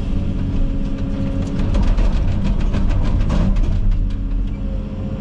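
Komatsu 360 excavator's diesel engine running steadily under load. For about three seconds in the middle it is overlaid by a quick run of sharp crackling clicks.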